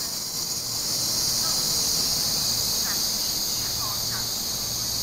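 Taiwan Railway EMU3000 electric trains moving along an underground platform, one pulling out past while another runs in. They are heard as a steady high-pitched hiss over a low hum, with a few faint short squeaks.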